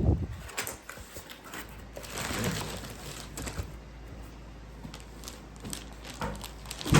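Light scattered clicks and a brief rustle about two seconds in from a plastic toy being handled, with a loud thump at the very end.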